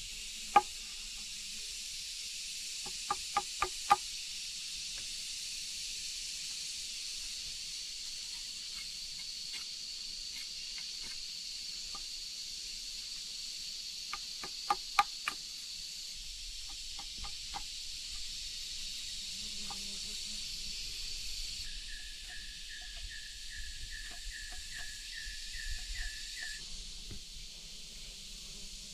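Steady high insect drone, broken by a few sharp knocks: one near the start, a quick run of four about three seconds in, and three more in the middle. The drone stops abruptly about two-thirds of the way through, and a rapid pulsed chirp then repeats for about five seconds.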